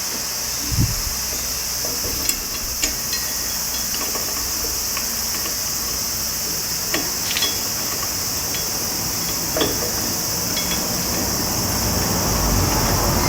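Occasional light clicks and knocks over a steady high-pitched hiss, with a low rumble building near the end.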